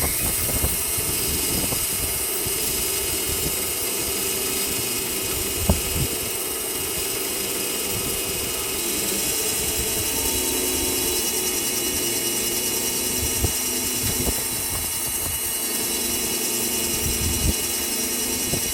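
Wood-Mizer LT20 band sawmill running steadily, with a few brief knocks.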